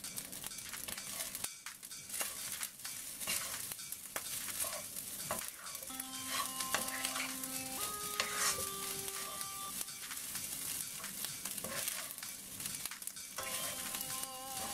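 Rice and vegetables sizzling in a nonstick frying pan while a wooden spoon stirs and tosses them, with frequent short scrapes and knocks of the spoon against the pan.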